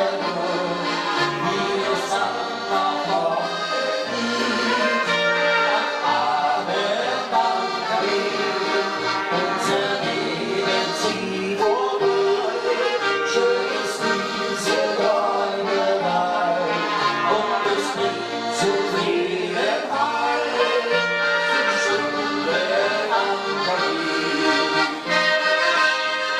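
Instrumental passage of alpine folk-pop music led by accordion, playing a running melody over a steady beat.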